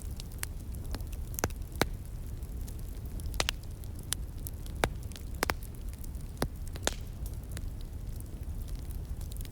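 Wood fire crackling, with irregular sharp pops and snaps, several a second at times, over a steady low rush of a flowing stream.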